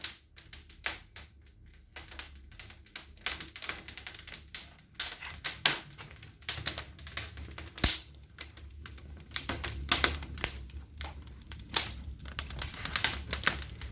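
Wood fire crackling in a fireplace firebox, with irregular sharp snaps and pops over a steady low rumble.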